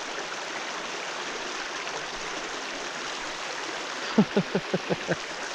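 Creek water flowing steadily around a person wading through it. About four seconds in, a quick run of about seven short vocal sounds, each falling in pitch.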